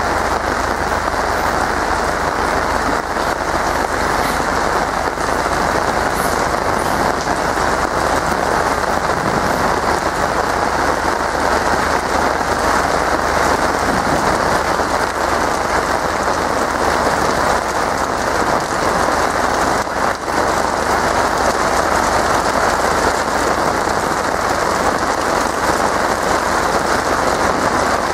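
Heavy tropical rain pouring steadily: a dense, even hiss that does not let up.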